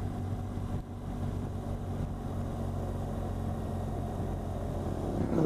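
BMW R1200GS boxer-twin engine running steadily at low road speed, about 30 mph, with a constant hum and wind noise.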